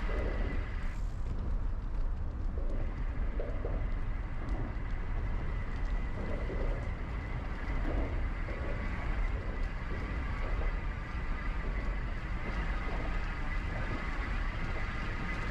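Wind buffeting the microphone of a bike-mounted action camera on a moving e-bike, with steady low tyre and road rumble and a thin, steady high whine.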